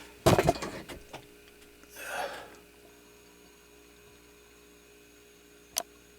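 Tools being handled at a workbench: a loud clatter about a third of a second in, a short rasp about two seconds in, then a faint steady hum with a single click near the end.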